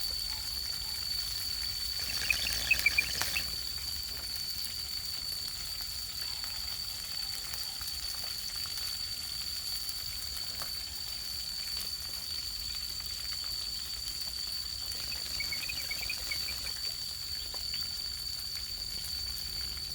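Food frying in a pan, a steady sizzle with no break. A steady high-pitched whine runs under it, with short chirping bursts a couple of seconds in and again near the end.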